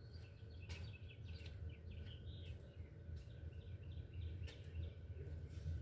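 Faint bird chirps in the first half, over a low steady hum, with a few sharp clicks scattered through.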